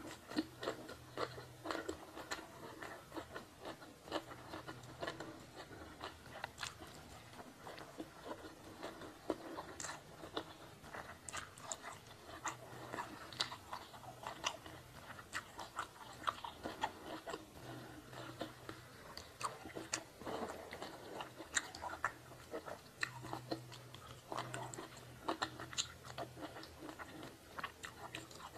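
Close-miked eating sounds: chewing and crunching mouthfuls of food, with many short, irregular wet mouth clicks.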